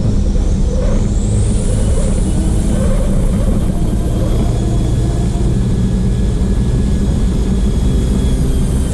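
Racing truck's diesel engine running hard and steadily under load, with wind and road noise, heard from a camera mounted at the back of the truck. A faint high whine dips and then climbs again about a second in.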